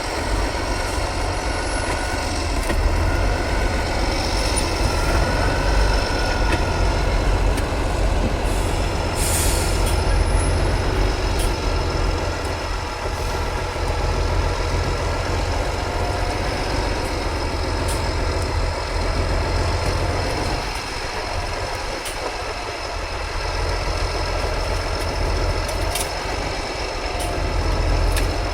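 Heavy off-road trial truck's diesel engine running steadily with a deep rumble, with a few short clicks over it.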